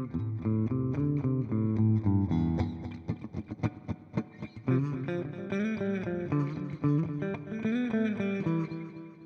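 Electric guitar, a Fender Jazzmaster with humbuckers, played through a Nux Time Core delay pedal. Quick runs of picked single notes carry trailing repeats, and the playing dies away near the end.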